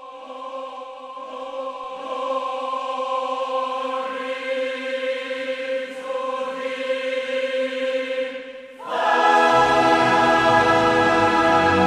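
Recorded classical choral music: a choir holds a sustained chord that swells in. About nine seconds in, a much louder, fuller passage enters with a deep bass.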